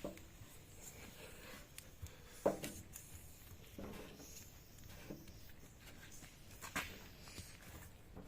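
Scattered handling knocks and scrapes, likely from working on a tractor tyre puncture with a plug kit, with a sharper knock about two and a half seconds in and another near seven seconds.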